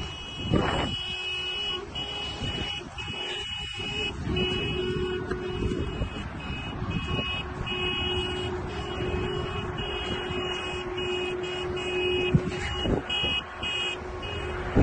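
Vehicle driving noise picked up by a dash camera, with a continuous high-pitched electronic tone over it, and a short knock near the end.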